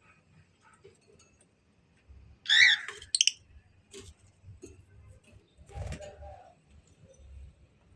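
A bird gives one loud, harsh call about two and a half seconds in, then two short sharp notes, among faint scattered clicks. A lower, duller sound with a thump follows near six seconds.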